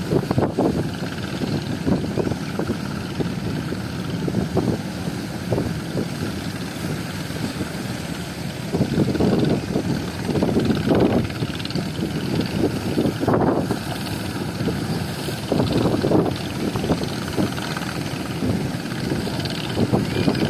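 Strong wind buffeting the microphone in a steady rumble, swelling in gusts several times, over the sound of the sea.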